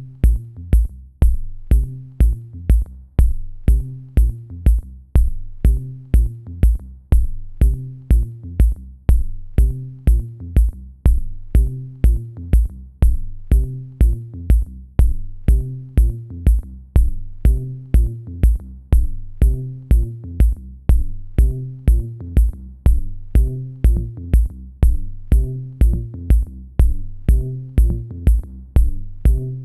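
Electronic music with a steady drum-machine beat of about two kicks a second, a sharp high tick on each beat, and a repeating low bass line.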